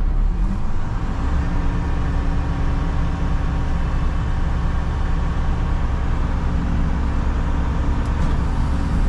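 Front-load garbage truck's diesel engine running steadily, heard from inside the cab, with a deep rumble and road noise; a steady engine tone settles in about a second in.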